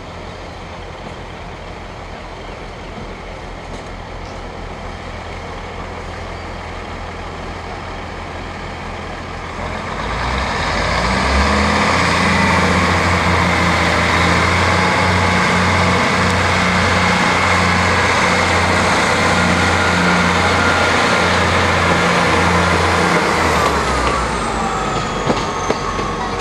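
A train passing close by. Its engine drone and a very high whine swell up about ten seconds in, hold steady, then fade near the end.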